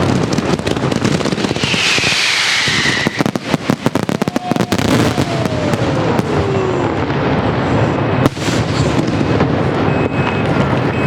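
Castillo fireworks display firing a dense, continuous barrage of rapid shell bursts and crackling bangs. A high falling whistle cuts through about two seconds in, and a longer, lower falling whistle follows about four seconds in.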